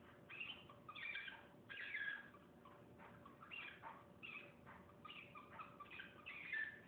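A cockatiel making its odd noise: a quick, irregular string of short squeaky chirps, fairly faint, with a few louder ones about a second in, two seconds in and near the end.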